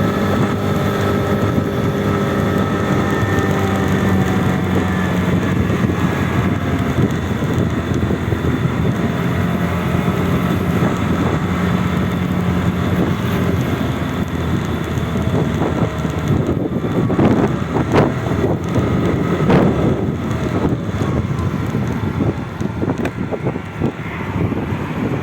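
Vehicle engines running, with wind on the microphone; a few short knocks about two-thirds of the way through.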